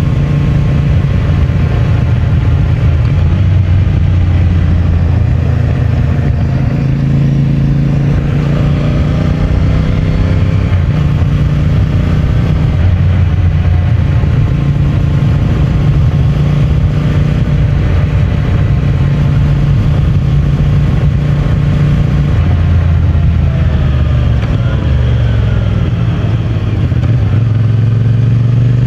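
CFMOTO 450MT's parallel-twin engine running under way through its stock exhaust, its pitch rising and falling with throttle and gear changes, dropping about three-quarters of the way through and then climbing again near the end.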